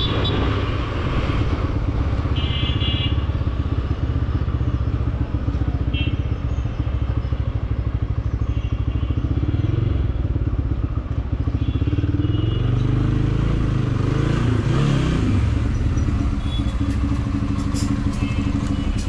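Motorcycle engine running on the move through traffic, its revs rising and falling for a few seconds about two-thirds of the way through, with short horn honks now and then.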